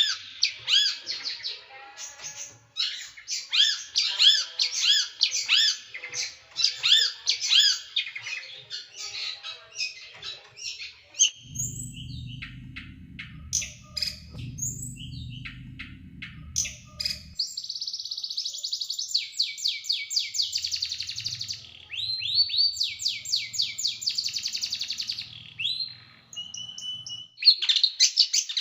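A small songbird singing a fast, sharp song of rapidly repeated high chirps and buzzy trills, the rapid-fire 'tembakan' phrases that bird keepers use to train competition birds. A low hum runs under the song for several seconds near the middle.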